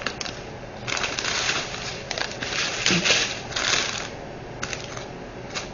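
Small diamond-painting drills and their packaging being handled: a dense rattling patter from about a second in, lasting roughly three seconds, then a few scattered clicks.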